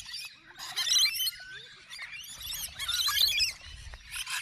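Small birds chirping and peeping in quick, high-pitched bursts, three flurries of overlapping calls.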